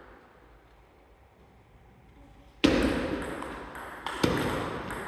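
Quiet for over two seconds, then table tennis balls clicking sharply off paddle and table in play, a few separate hits in the second half.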